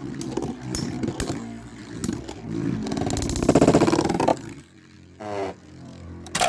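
Two metal-wheeled Beyblade spinning tops, Storm Pegasis and Lightning L-Drago, whirring and scraping in a stadium, with sharp clicks as they collide. The whir is loudest about midway, then fades, with a falling whine near the end as a top slows.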